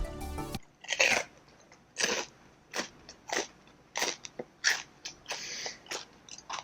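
Close-up crunching as someone bites and chews crispy fried pork skin: a dozen or so sharp, irregular crunches with short pauses between them. Background music cuts off about half a second in.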